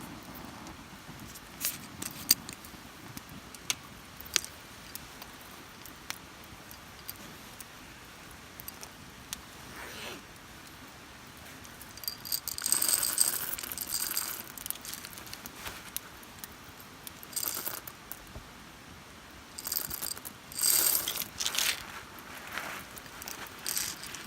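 Metal camp cookware being handled, clinking and rattling in two busier spells, one about halfway through and one near the end, with scattered sharp clicks between them.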